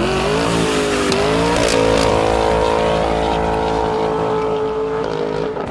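Dodge Challenger SRT 392 accelerating hard through its Kinney's Tunnel Ram performance exhaust. The engine pitch climbs for about a second and a half, holds high and steady, and eases off slightly near the end.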